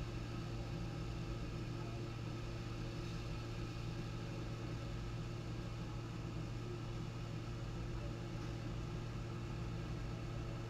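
Steady low electrical hum with a faint hiss, the running noise of the nest camera's audio.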